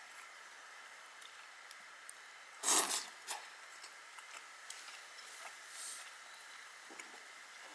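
Someone eating instant ramen: one loud, short slurp about three seconds in and a softer one near the end, over a faint steady hiss with scattered small clicks.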